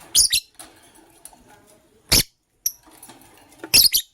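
Lovebirds giving short, shrill, high-pitched chirps in quick clusters just after the start and again near the end, with a single sharp burst about two seconds in.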